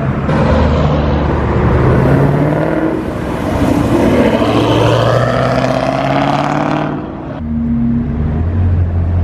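A sports car's engine accelerating hard, its note climbing in pitch for several seconds, then cutting off sharply about seven seconds in. A lower, steadier engine note follows.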